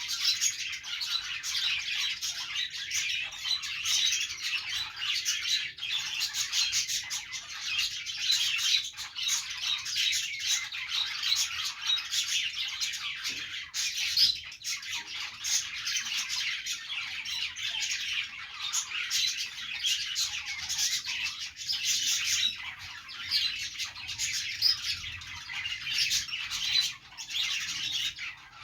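A group of budgerigars chirping and chattering without a pause, many short calls overlapping.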